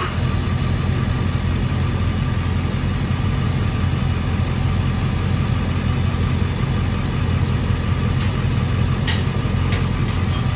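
Dodge Charger 392 Daytona's 6.4-litre Hemi V8 idling steadily through a straight-piped exhaust, with its mid mufflers and resonators deleted and only the catalytic converters left. A couple of faint clicks come near the end.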